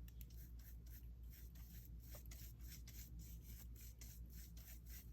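Faint, quick rubbing strokes on paper, several a second, as gold paint is worked onto scrapbook paper.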